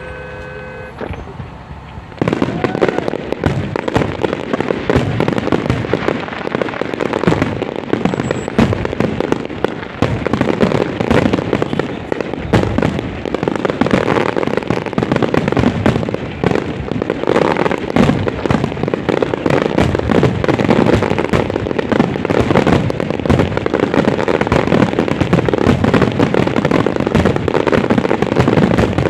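Fireworks going off in a dense, rapid string of bangs that starts about two seconds in and keeps going without a break.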